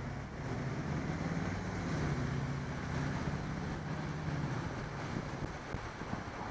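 Wind rushing over the microphone of a moving bicycle, with a low engine hum from nearby road traffic that shifts in pitch.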